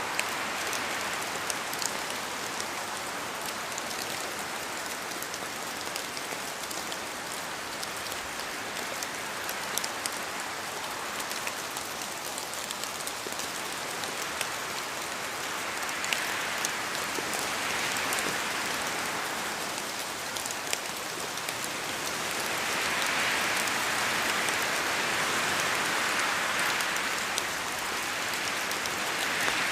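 Steady rain falling, with a dense patter of individual drops; it swells a little louder in the second half.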